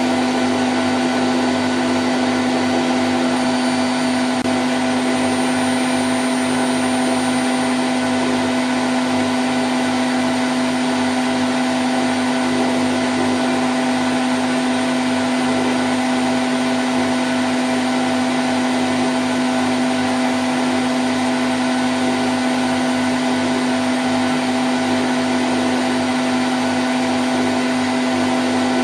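Candy Grand O' F106 washing machine spinning at 1000 rpm: a steady hum with a strong low tone over the even whir of the motor and drum.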